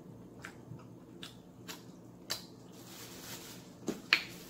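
Close-miked mouth sounds of chewing fried chicken: scattered wet clicks and smacks, with a soft hiss about halfway through and the sharpest click near the end.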